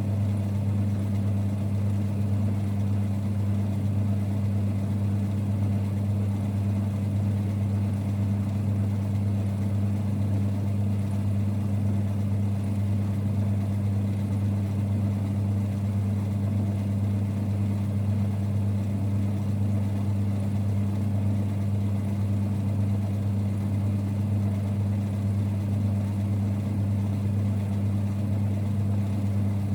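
1946 Boxford lathe running with a steady low rumble, unchanging throughout.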